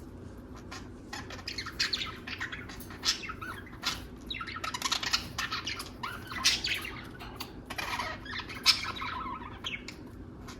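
Budgerigars chattering: a dense run of quick chirps and warbling notes, starting about a second in and thinning out near the end.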